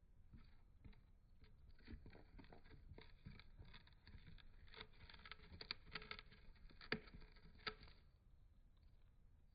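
Budgerigar nibbling and tearing at a cardboard toilet-paper tube with its beak: faint, irregular crackles and clicks that grow denser and louder about halfway through, then stop shortly before the end.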